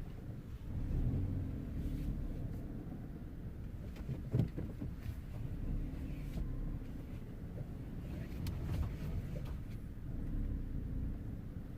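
2014 Volkswagen Up moving slowly, a steady low rumble of engine and tyres, with a short knock about four seconds in.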